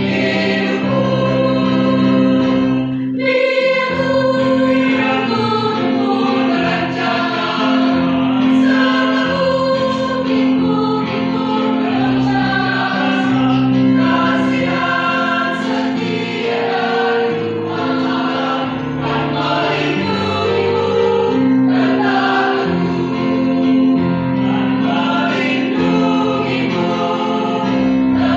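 A choir singing a hymn in held chords that move from one to the next, with a short pause for breath about three seconds in.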